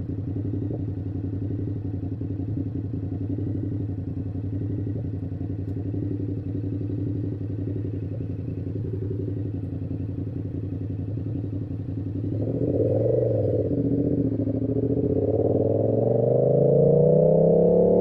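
Yamaha YZF-R7's 689 cc parallel-twin engine through an SC-Project exhaust, idling steadily, then revving briefly about twelve seconds in and pulling away, the note rising steadily as it accelerates.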